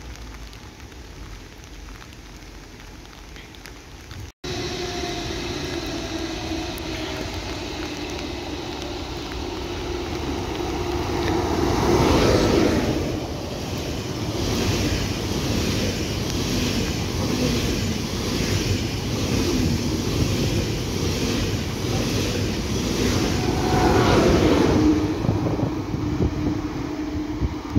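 Rain, then, after a cut about four seconds in, an ICE high-speed train passing close by at speed: a loud rushing of air and wheels with a regular beat of wheelsets running over the rails. It swells loudest about twelve seconds in and again near the end.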